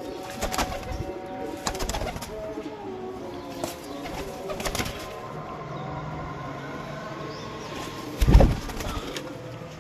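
Teddy pigeons cooing, with scattered clicks and one loud thump about eight seconds in.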